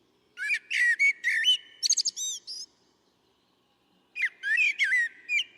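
A bird singing: two bouts of quick chirping, whistled notes, the second starting after a pause of about a second and a half.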